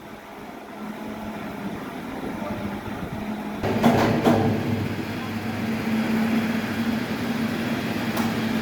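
Heavy machinery running with a steady hum that grows louder, with two sharp metal clanks about halfway through and another near the end.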